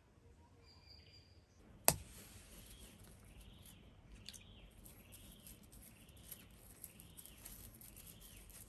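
Faint outdoor bush ambience. A sharp click comes about two seconds in; after it, insects keep up a steady high hiss and a bird repeats a short rising-and-falling call about every three quarters of a second.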